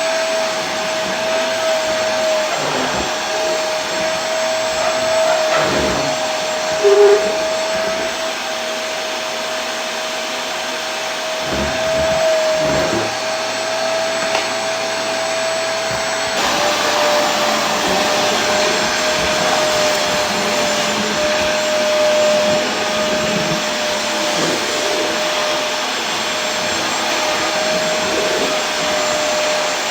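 Vacuum cleaner running steadily: an even motor-and-airflow hiss with a constant whine, which drops slightly in pitch about halfway through. There is a brief louder blip about seven seconds in.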